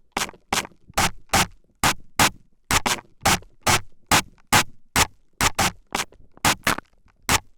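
Quick spritzes from a spray bottle sprayed close at the microphone, one after another, about two or three short sprays a second.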